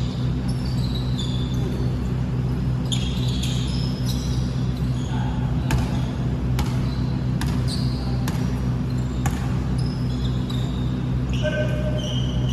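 A ball bouncing on a hard court at irregular intervals, with short high shoe squeaks from players moving, over a steady low hum.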